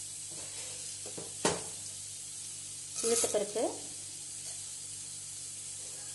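Chana dal and urad dal sizzling in hot oil in a pressure cooker: a steady frying hiss. A single sharp clink sounds about one and a half seconds in.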